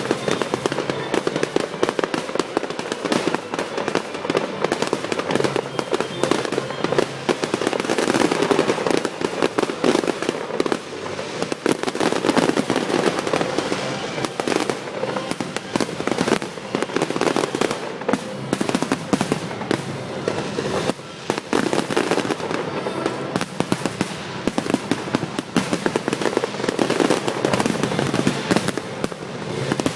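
Fireworks display going off in a rapid, unbroken barrage of bangs and crackling, the reports coming too thick to count.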